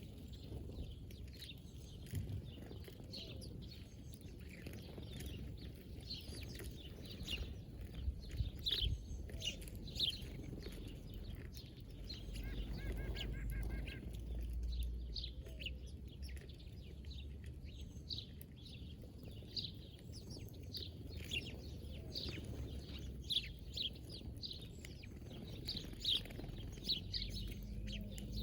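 Small birds chirping, many short high calls scattered throughout, with a brief rapid trill about halfway through. A low rumble runs underneath.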